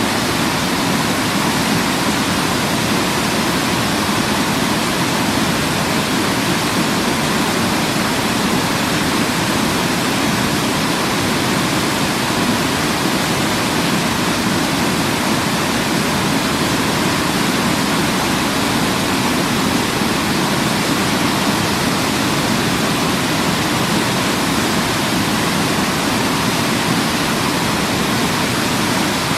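Waterfall, a steady rush of falling water with no change or break.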